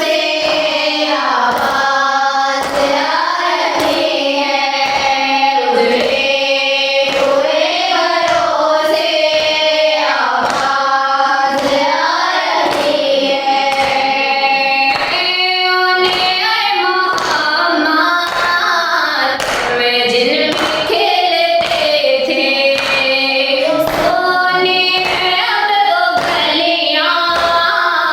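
A noha lament chanted by voices with a chorus, over a regular, steady beat of hand strikes in the manner of matam chest-beating.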